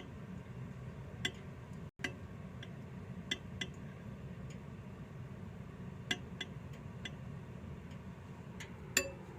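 A butter knife taps a glass bowl of microwave-heated water, knocking bubbles loose from its bottom. The taps are light and irregular, about eight in all, and the last one, near the end, rings briefly. A steady low hum runs underneath.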